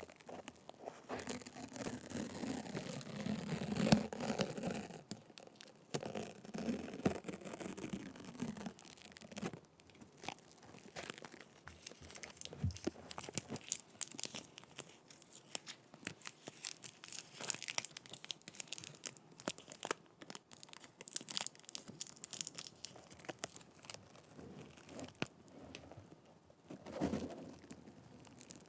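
Sticky tape rubbed, pressed and peeled against a microphone, giving close crackly scratching and sticky tearing sounds. Heavier rubbing in the first few seconds gives way to lighter, irregular crackles and ticks, and a short burst of rubbing comes near the end.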